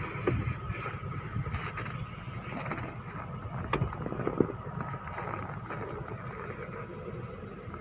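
A vehicle engine running steadily, with a few sharp knocks about four seconds in.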